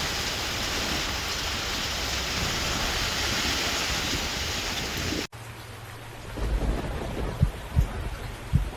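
Torrential thunderstorm rain with a steady hiss for about five seconds, then an abrupt cut to a quieter stretch where thunder rumbles low, with a few short low thumps near the end.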